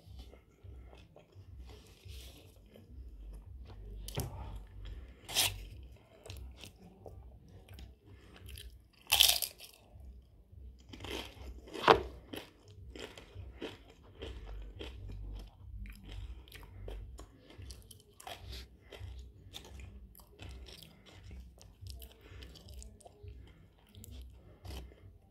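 Close-up chewing of a steak burrito and tortilla chips: wet mouth smacks with repeated sharp crunches. The loudest come about nine and twelve seconds in.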